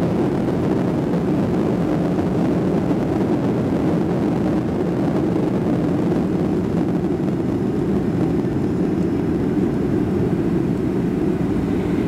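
Steady rumble of a twin-engine Boeing 757's engines and rushing air, heard inside the passenger cabin during the landing.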